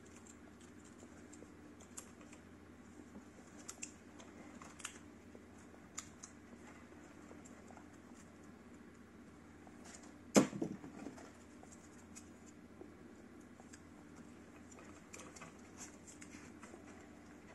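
Scattered light clicks and scratches of hands working copper coil wire and insulation into the slots of an electric motor stator, with one sharp knock about ten seconds in.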